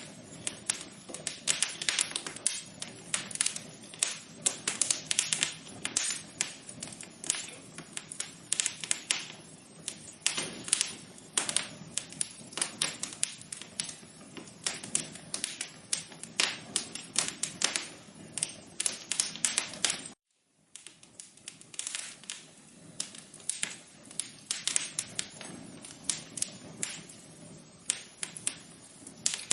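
Wood fire in a fireplace crackling and popping steadily over a low hiss, with a brief dropout to silence about two-thirds of the way through.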